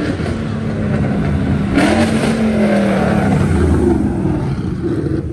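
A car's engine accelerating hard past, the pitch holding and rising slightly, loudest about two seconds in.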